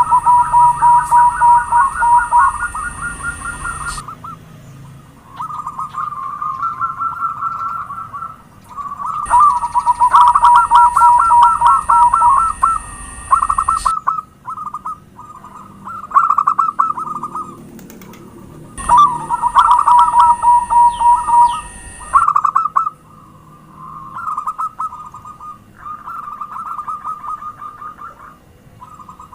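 Zebra doves (perkutut) singing: rapid strings of staccato cooing notes, with louder bouts at the start, about 9 seconds in and about 19 seconds in, and softer calls in between.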